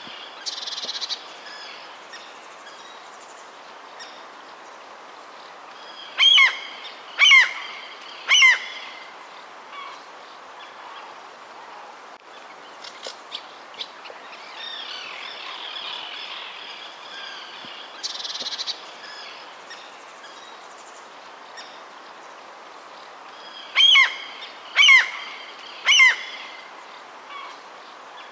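Birds calling over a steady background hiss: twice a loud series of three harsh pitched calls about a second apart, with softer chirps between.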